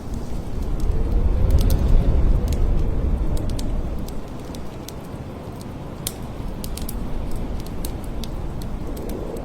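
Blizzard wind gusting, a deep rumble that swells about two seconds in and then eases, with a faint howl rising and falling through it and scattered light ticks.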